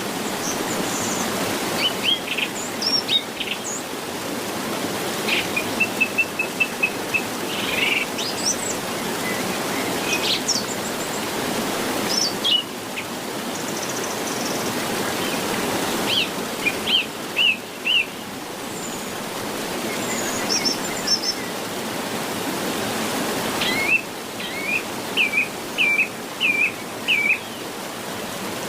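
Wild birds chirping and calling in short phrases and quick runs of repeated notes, over a steady rushing background noise.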